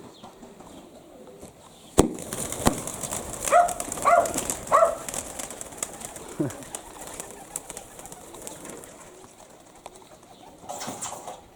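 Pigeons landing: a sharp clap about two seconds in, then several seconds of flapping wings, with three short pigeon calls in quick succession in the middle. Another short burst of wingbeats comes near the end.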